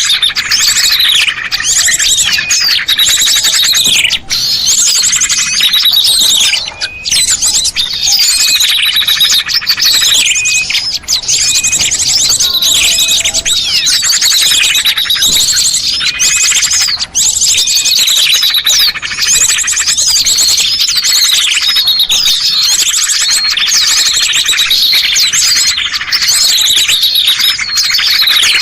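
Small songbirds chirping and calling densely and without pause, many quick sweeping chirps and trills overlapping: a bird-luring (pikat) call recording meant to draw small birds down.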